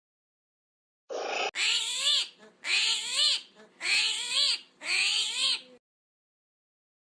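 A cat meowing four times, about once a second, each meow rising and then falling in pitch.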